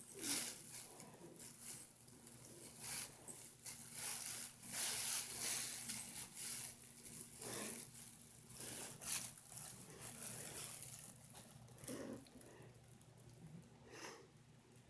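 Bag rustling and crinkling in irregular bursts as a cat moves about in and around it, dying down to a few soft rustles near the end.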